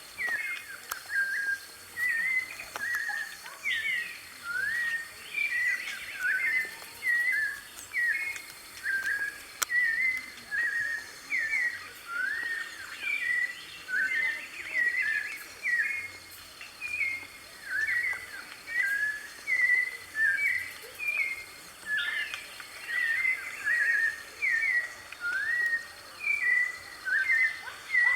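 White-necked thrush (sabiá-de-coleira) singing: a continuous run of short, clear, gliding notes in quick phrases, about one phrase a second.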